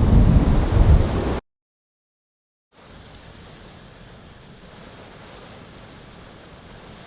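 Storm wind gusting hard against the microphone as a loud low rumble, which cuts off abruptly about a second and a half in. After a moment of dead silence, a faint steady hiss of wind.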